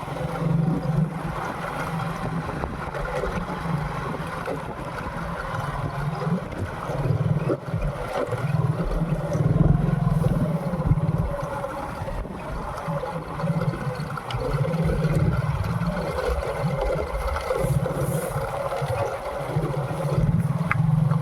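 Motorcycle engine running on the move, a low hum that swells and fades, with wind noise on the microphone.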